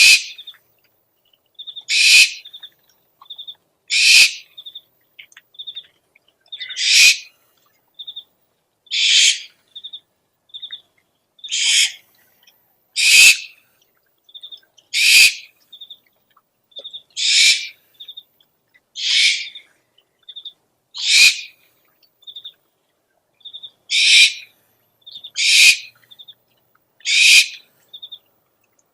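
Owl calls from a lure recording: a harsh, hissing call about every two seconds, with short, clear high notes in the gaps between them.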